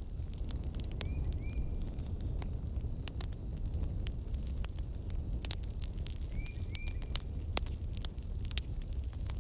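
Wood fire in a fireplace burning with a steady low rumble and irregular sharp crackles and pops. Two pairs of short high chirps sound about a second in and again near seven seconds.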